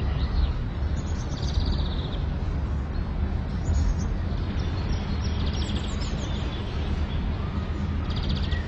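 Small birds chirping in short rapid trills over a steady low rumble.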